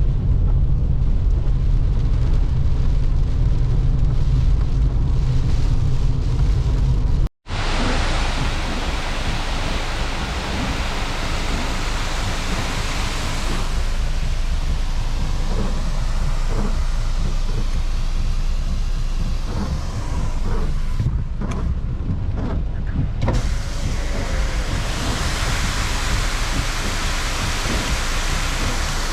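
Car driving: steady engine and road rumble, then after an abrupt cut about seven seconds in, a steady rushing hiss of road and wind noise.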